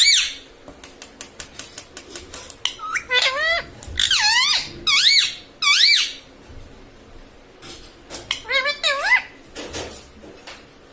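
Indian ringneck parrot giving short, high-pitched, wavering calls or talk-like chatter in several bursts, with small clicks in between.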